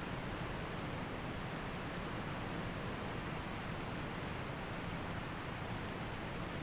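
Waterfall water rushing steadily, an even, unchanging wash of falling and flowing water.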